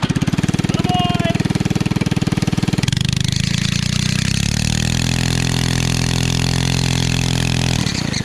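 Mini bike's small single-cylinder Harbor Freight Predator engine revs up and runs hard at full throttle. About three seconds in its note changes, then climbs slowly for a couple of seconds as the bike accelerates, and holds steady. It changes again just before the end.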